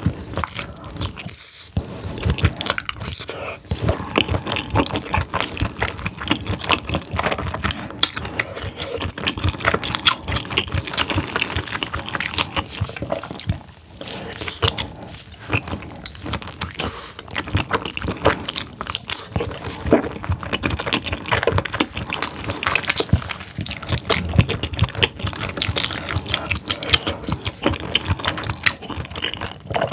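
Close-miked biting and wet chewing of a whole steamed squid: a dense run of sticky, smacking mouth sounds, pausing briefly about a second and a half in and again near the middle.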